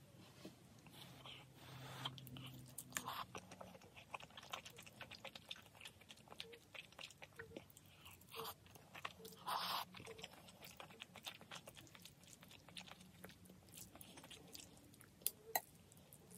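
A person chewing and biting close to the microphone, eating spicy instant noodles with fried spam: a run of small wet mouth clicks with a few louder bites.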